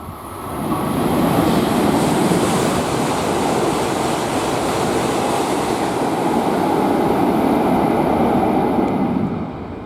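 Tohoku Shinkansen train passing through the station at speed without stopping. A loud rushing noise swells up within about a second, holds steady for about eight seconds, then falls away near the end.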